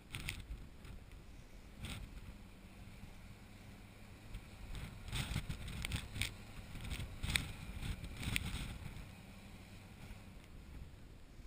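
A heavy vehicle engine running steadily under wind noise on the microphone, with several sharp knocks and clunks between about five and eight and a half seconds in.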